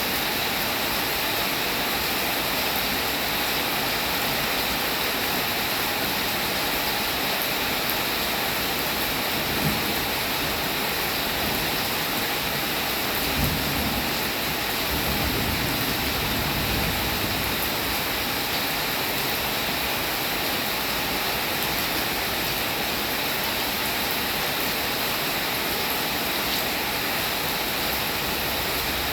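Steady rain falling, an even hiss with a brighter upper edge. A soft low rumble rises for a few seconds about halfway through.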